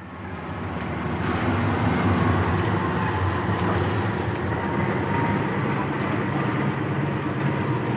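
Diesel-hauled train running through the station, its engine drone building over the first two seconds and then holding steady, under a broad hiss of heavy rain.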